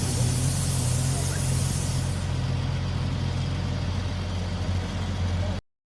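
Rally vehicle's engine running with a steady low rumble, and air hissing as a tyre is let down; the hiss stops about two seconds in. The sound cuts off abruptly near the end.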